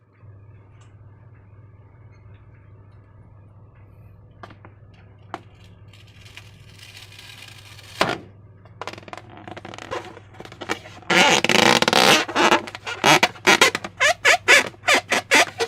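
Slime being squeezed and worked by hand: soft wet squelches at first, then a fast run of loud squelching and crackling strokes, several a second, in the last few seconds. A faint steady low hum runs underneath.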